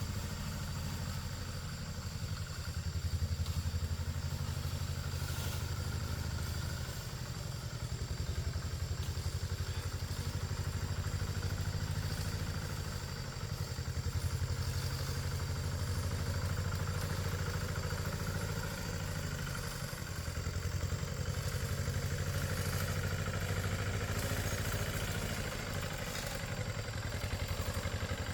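A small engine running steadily with a low, even throb and some clatter. It swells a little in speed or load every several seconds, then eases back.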